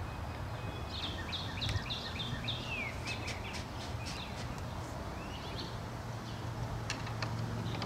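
Birds chirping: a quick series of short chirps about a second in, and a few more later, over a low steady hum and a few faint clicks.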